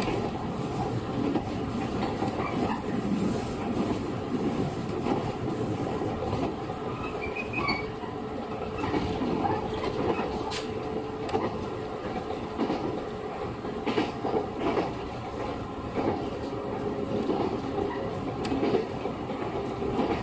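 JR 115 series electric multiple unit running along the line, heard from inside the carriage: a continuous rumble of wheels and motors with a steady hum, and scattered wheel clicks over the rail joints.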